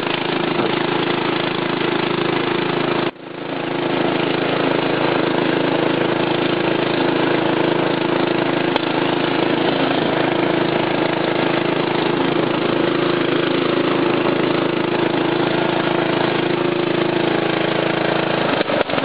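Craftsman lawn tractor's 12.5-horsepower engine running steadily while the tractor is driven, with a brief sharp drop in level about three seconds in. It runs great.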